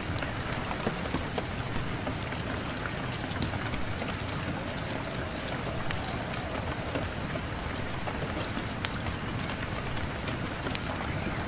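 Fire crackling in a fireplace: irregular sharp pops and snaps over a steady rushing wind noise.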